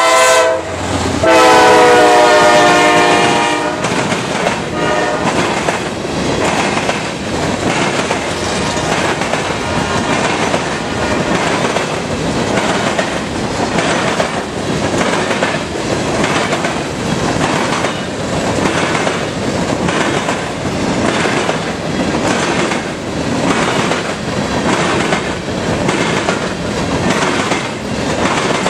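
A freight locomotive's air horn sounds one last long chord-like blast about a second in as it crosses the grade crossing. Then a long string of covered grain hopper cars rolls past with a steady rhythmic clickety-clack of wheels over the rail joints and the crossing.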